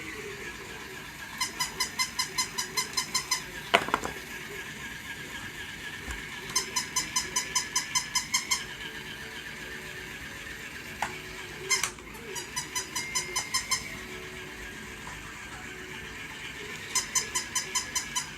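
Battery-operated toy dog running: a steady whirr from its motor, broken four times by runs of rapid high squeaks, about five a second for roughly two seconds each. There are a couple of sharp clicks in between.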